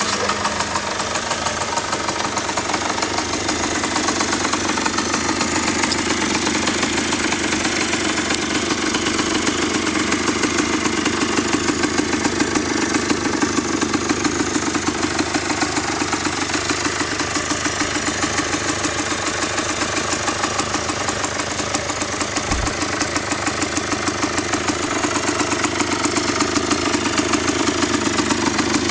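Husqvarna WSM 50 supermoto's 50 cc two-stroke engine idling steadily after a cold start, with a fast, even buzzing pulse.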